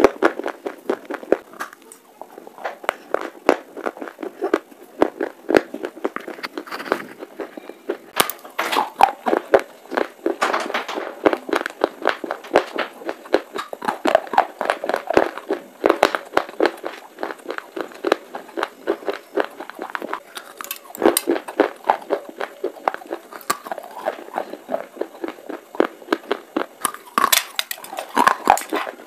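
Close-miked chewing of clay pipe pieces: a dense run of crisp crunches and crackles, with louder bites now and then.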